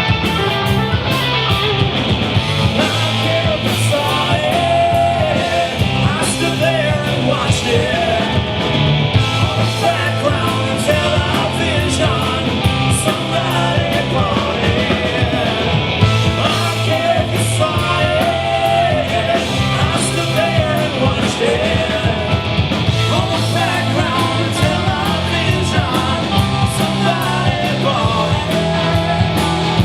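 Live rock band with electric guitars, bass and drums, and a singer shouting the vocals, recorded loud from the audience.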